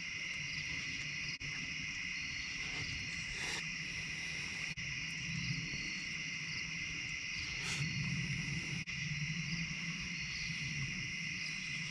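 Steady outdoor chorus of crickets and other insects trilling continuously, with short repeating chirps over it and a low rumble underneath.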